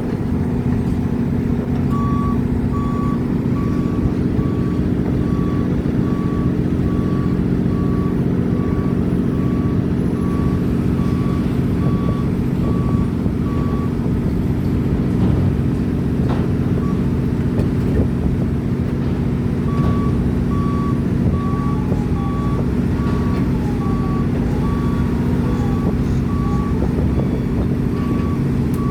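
A heavy diesel engine running steadily while a reversing alarm beeps about once a second. The beeping stops for several seconds midway and then resumes.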